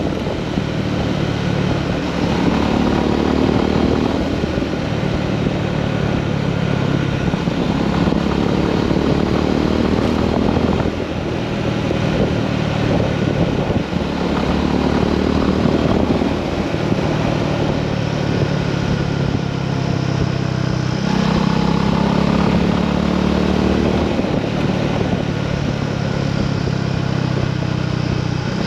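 Honda GB350S single-cylinder motorcycle engine running under way, its note rising and falling with the throttle, on freshly fitted NGK spark plugs.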